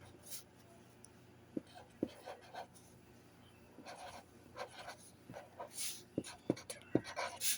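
Felt-tip marker scratching across paper in short, irregular strokes, with paper handling and a few light knocks on the table.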